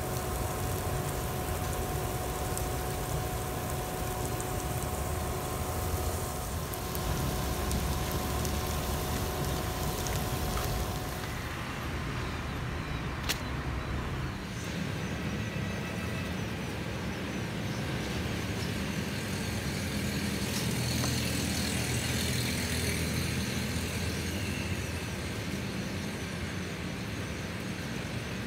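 Egg-and-flour batter with thiên lý flower buds frying in oil in a nonstick pan: a steady sizzle over a faint even hum. About eleven seconds in this gives way to a low, steady outdoor background rumble, with a single sharp click shortly after.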